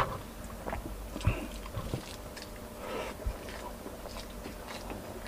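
Close-up eating sounds of a person chewing a mouthful of stewed chicken and rice, with scattered small wet clicks and smacks. There is one sharper click right at the start.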